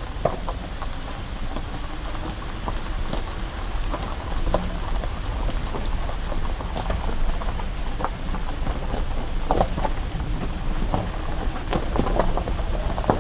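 Raindrops ticking and pattering on a moving car, over a steady low rumble of engine and tyres on wet road, heard from inside the cabin.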